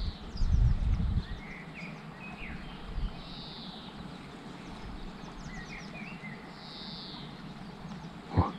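Wild birds calling and chirping outdoors, one soft call coming back about every three and a half seconds among shorter chirps. A low rumble is heard during the first second or so.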